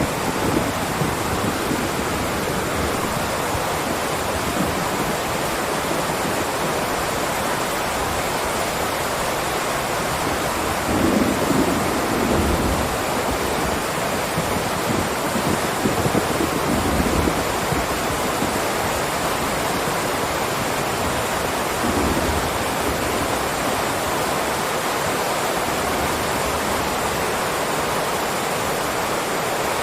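Steady heavy rain, a constant hiss, with low rumbles of distant thunder swelling up about a third of the way in and twice more after.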